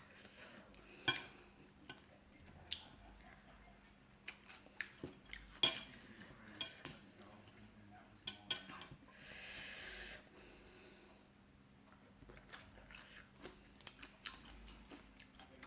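Eating sounds: scattered light clinks of utensils against dishes, with quiet chewing, and a short burst of rustling noise about nine seconds in.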